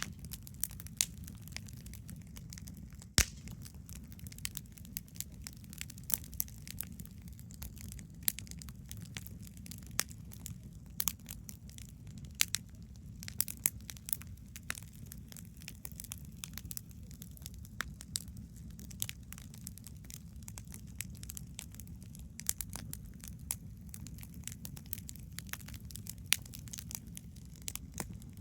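Wood campfire crackling: irregular sharp pops and snaps over a steady low rumble, with one louder pop about three seconds in.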